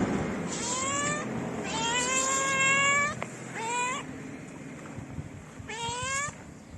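Stray cat meowing four times, each meow rising in pitch, the second one long and drawn out; the cat is a hungry street cat calling for food.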